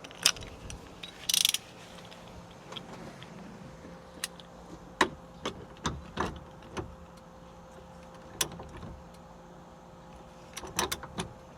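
Torque wrench set very low working the steering wheel's mounting bolts: scattered ratchet clicks and small metal knocks, a second or so apart, with a short cluster of clicks near the end.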